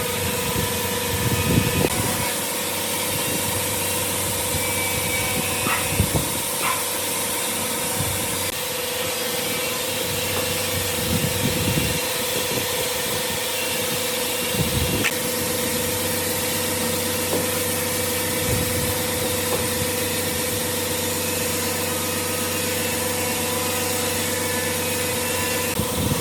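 A workshop woodworking machine running steadily with a constant hum, with a few knocks and clicks, about six seconds in and again around fifteen seconds.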